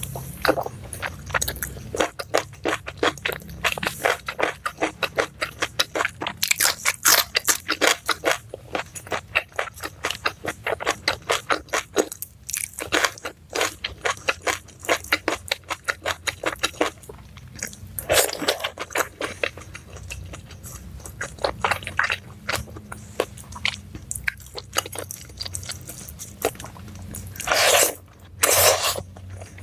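Close-up chewing and crunching of a mouthful of nasi padang: a fast, irregular run of crisp crunches with wet chewing between them. Near the end come two longer, louder mouth sounds.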